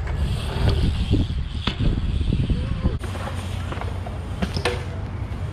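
Wheels rolling on skatepark concrete under a steady low rumble, with several separate sharp clacks and knocks of bikes or boards hitting the ramps.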